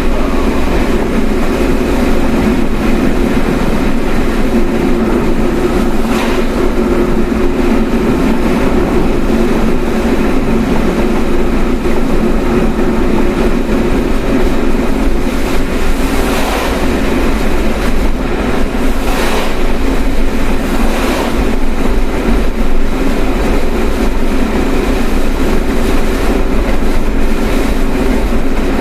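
Car driving on the road: a steady road and engine rumble, with several brief whooshes, the strongest just past the middle.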